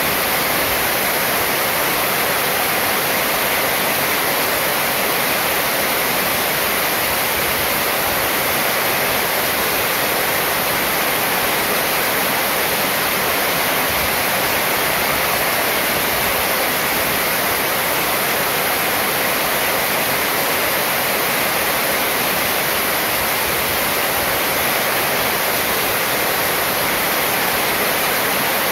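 Heavy rain falling steadily on a metal roof, with water pouring off the roof edge: an even, unbroken hiss.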